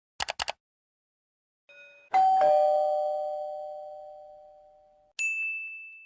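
A few quick clicks, then a two-note ding-dong doorbell chime, high note then lower, ringing out for about three seconds. A single higher ding follows near the end.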